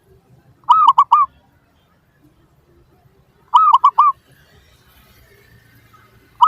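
Zebra dove (perkutut) calling: two short bursts of quick, ringing cooing notes, about three seconds apart.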